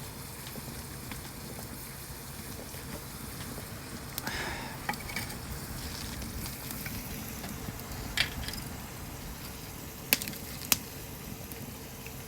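Potato slices frying in oil in a cast-iron skillet over a campfire: a steady sizzle, with a few sharp pops or clicks scattered through it, the loudest about ten seconds in.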